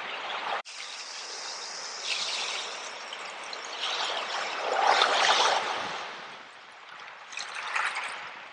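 Ocean waves washing in: a steady hiss of water that swells and falls several times, loudest about halfway through, with a sudden brief dropout just under a second in.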